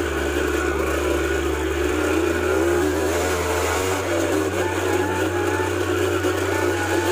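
Dirt bike engine running and revving under load on an uphill trail, its pitch wavering as the throttle changes. Background music with a deep bass line, changing note every couple of seconds, plays underneath.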